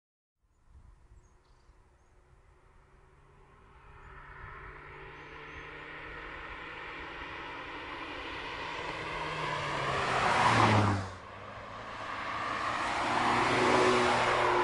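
Mazda MX-5 roadster's four-cylinder petrol engine as the car drives past. It is faint at first and grows louder for about ten seconds, then its note drops as the car passes. It breaks off abruptly, and a second pass builds up loud near the end.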